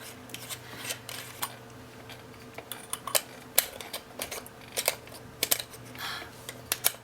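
Irregular light clicks and taps of a handheld top-crank herb grinder being handled and worked, its metal parts knocking against each other, over a faint steady hum.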